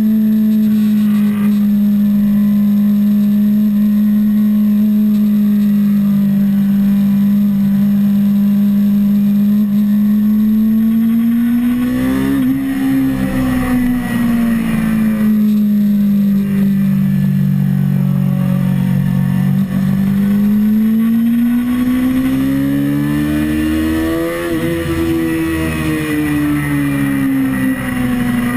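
Kawasaki ZX-6R 636's inline-four engine running at steady high revs under way, with wind rush. The engine note climbs and eases back twice: once about twelve seconds in, and again in a slower rise that peaks near the end.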